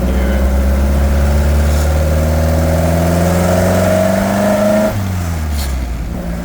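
1928 Ford Model A four-cylinder engine with a four-port overhead-valve head conversion, revving up under acceleration with its pitch climbing steadily to about 3,000 rpm. About five seconds in, the throttle is released and the revs drop off suddenly. The engine is still cold.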